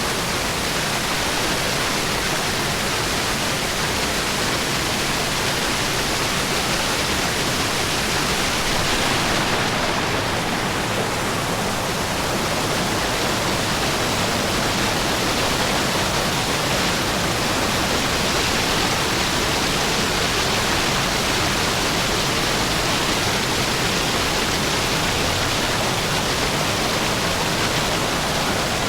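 Rushing water running steadily, an unbroken even rush.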